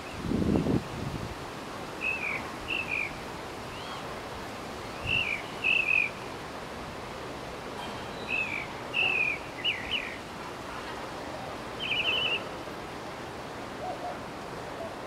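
A bird calling in short, high chirps, in twos and threes every few seconds, over a steady outdoor hiss. A brief low rumble, the loudest sound, comes in the first second.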